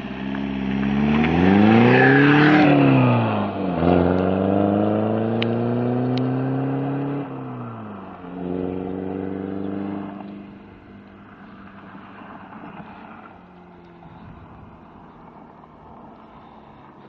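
Vectra diesel engine revved: its pitch rises to a peak about two seconds in and falls back, then climbs again and holds before dropping. After about ten seconds it settles into a quieter, steady idle.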